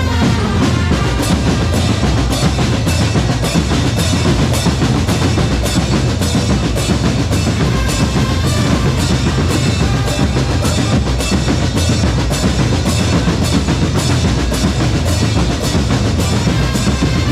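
Drum corps percussion section playing a driving, steady beat on snare and bass drums, with rolls.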